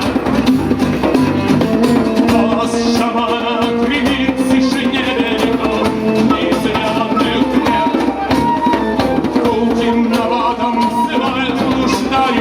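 A band playing music: sustained melodic lines over a steady drum beat.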